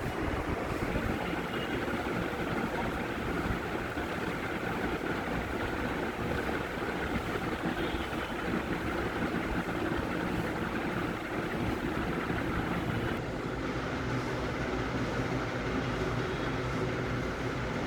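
Usha ceiling fan running: a steady whirring hum with a faint constant tone.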